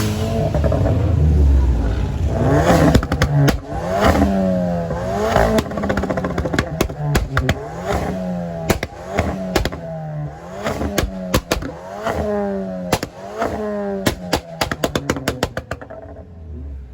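Car engine revved again and again, its pitch climbing and dropping every second or so. Sharp pops and cracks come between the revs and grow thick and fast near the end.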